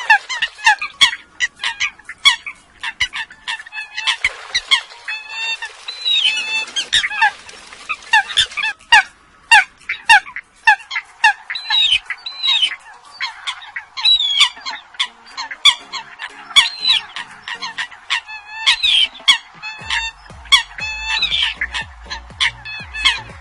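Eurasian coots calling: many short, sharp calls in quick succession, overlapping, some bending in pitch, with clicks in between.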